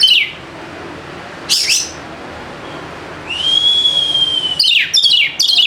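Oriental magpie-robin singing: sharp, quickly falling notes, a long steady whistle about three seconds in, then a quick run of falling notes near the end.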